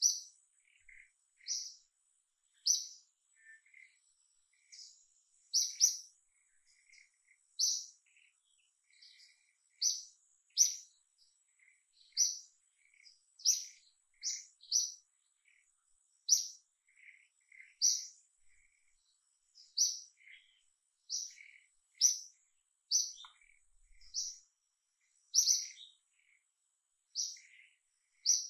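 A bird chirping: short, high chirps repeated about every second or so, with softer, lower chirps in between and a faint steady high whine underneath.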